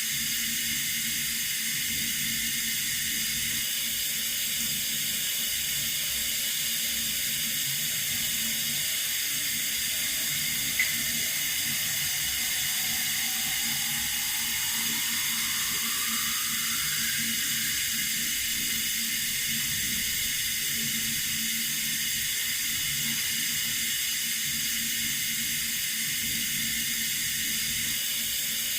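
Running water, a steady even rush of hiss. A single brief click comes about eleven seconds in.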